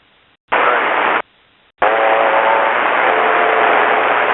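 Two bursts of radio hiss on an aircraft radio channel, each keyed on and off abruptly: a short one about half a second in, then a longer one with faint garbled tones under the static.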